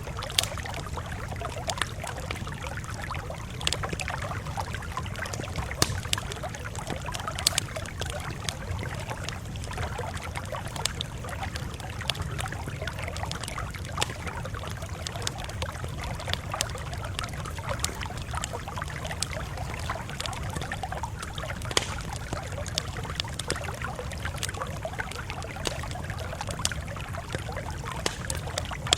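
Campfire crackling: irregular sharp pops and snaps, a few much louder than the rest, over a steady low rush.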